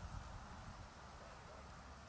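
Faint steady background noise with a low rumble and no distinct events.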